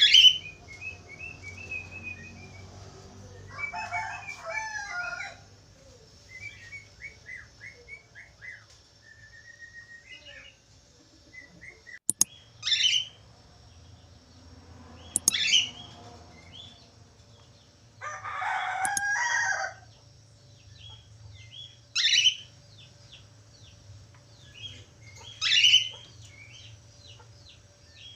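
Budgerigars calling and chattering: loud, sharp calls every few seconds, with softer rapid chirps and warbling between them. Two sharp clicks come near the middle.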